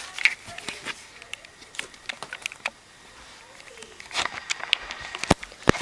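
Light handling noise: faint rustling with scattered small clicks, and two sharper knocks near the end.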